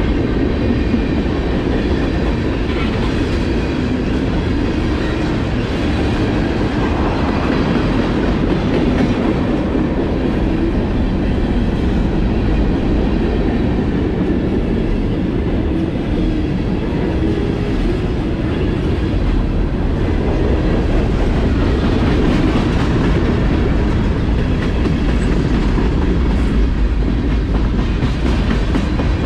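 CSX freight train rolling by, a steady rumble that holds at one level.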